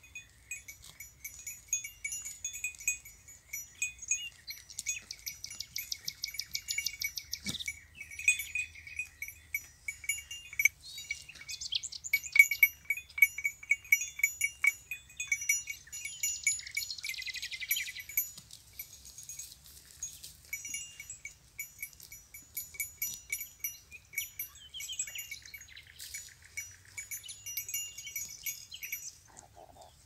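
Small metal bells on grazing goats jingling irregularly as the goats move, with brief runs of quicker tinkling now and then.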